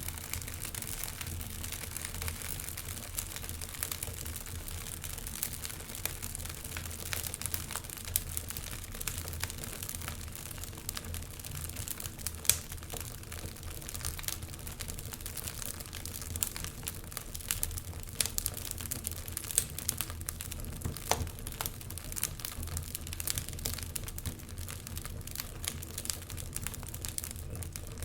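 Wood fire crackling in a fireplace: a steady hiss with frequent sharp snaps and pops, one louder pop about halfway through, over a low steady rumble.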